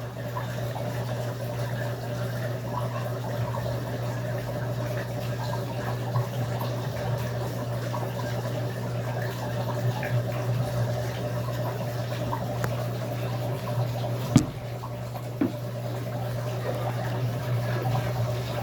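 Electrolux LAC13 top-load washing machine filling its tub with water, with a steady low hum under the running water. A single sharp click about 14 seconds in.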